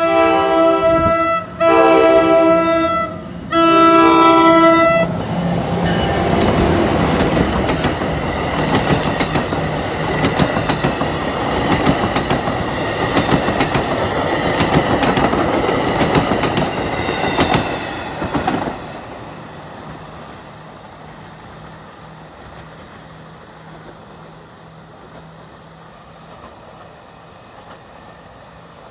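NJ Transit commuter train's multi-note chime horn sounding three long blasts for the crossing. The bilevel train then passes close with a heavy rumble and rapid clickety-clack of wheels over rail joints, which cuts off sharply about nineteen seconds in, leaving a much quieter steady background.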